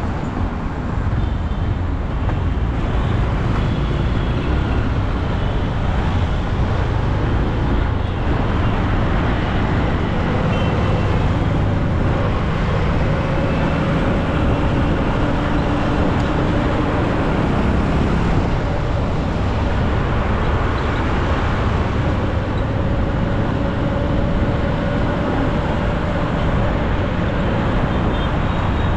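Steady engine and road noise from a motorcycle riding through city traffic, with other vehicles passing.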